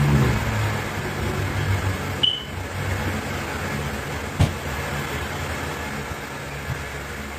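A steady low mechanical hum with a hiss over it, with one sharp click about four and a half seconds in.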